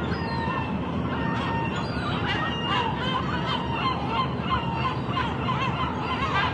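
Many seagulls calling at once, short overlapping squawks and cries, some sliding up or down in pitch, over a steady background rush.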